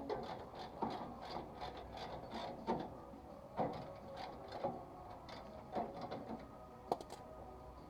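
Hand-tool work on metal: rapid ratchet-like clicking in short runs, broken by sharper metal knocks about once a second, while a stubborn part is worked on.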